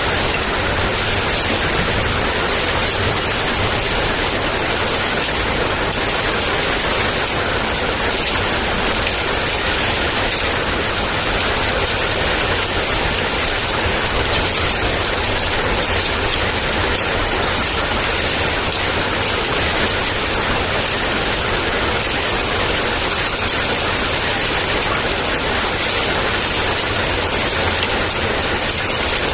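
Heavy rain in a steady downpour: an even, unbroken hiss of falling rain with a steady low rumble underneath.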